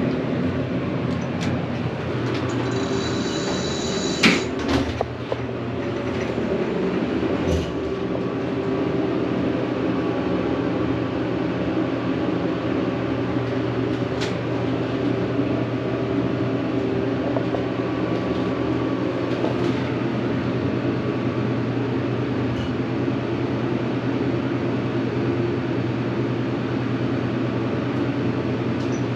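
Observation-tower elevator descending: a short high beep and a sharp knock about four seconds in as the car sets off, then a steady mechanical hum and rumble from the drive as it goes down.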